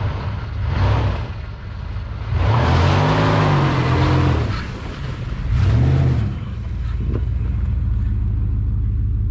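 Jeep Grand Cherokee ZJ engine idling and revved twice, a longer rev about two and a half seconds in and a short one near six seconds, then settling back to a steady idle after sitting unused for months.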